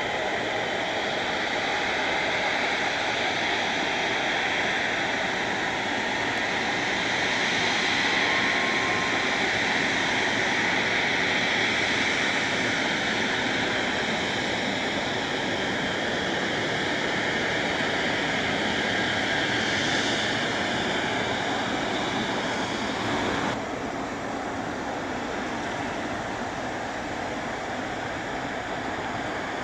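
Boeing 777-200LR's GE90 jet engines at takeoff power, a steady loud roar during the takeoff run. About 23 seconds in, the sound suddenly drops a little and turns duller.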